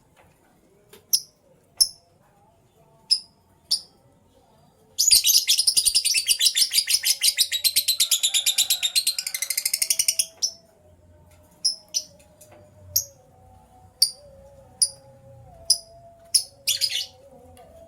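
Lovebirds chirping: sharp, high single chirps spaced about a second apart, broken by a rapid, loud chattering run of fast repeated notes lasting about five seconds in the middle.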